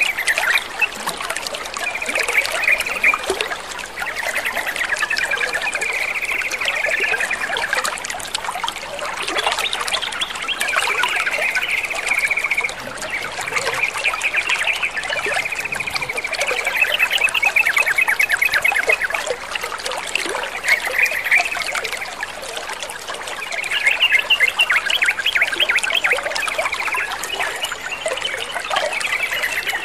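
Water trickling and splashing steadily, with rapid chattering bird calls mixed in that come and go every few seconds.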